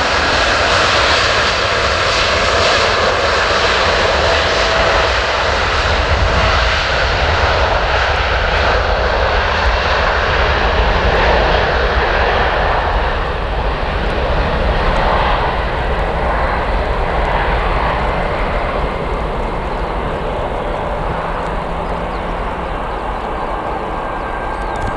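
Boeing 787-9 jet engines at takeoff power, a loud, steady rushing roar that gradually dulls and fades from about halfway through as the aircraft pulls away.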